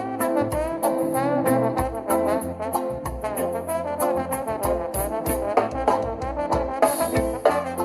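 Music playing through a JBL Charge 3 portable Bluetooth speaker: an instrumental passage led by a brass section over bass and steady drums.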